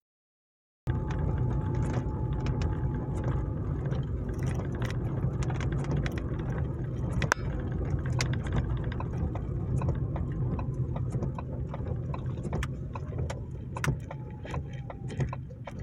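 Car driving on the road, a steady low rumble of engine and tyres with many scattered sharp ticks, starting abruptly about a second in.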